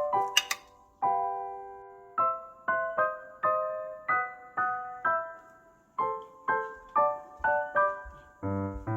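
Background music: a solo piano playing a gentle melody of single struck notes, about two a second, with a longer held chord about a second in. A brief sharp click sounds about half a second in.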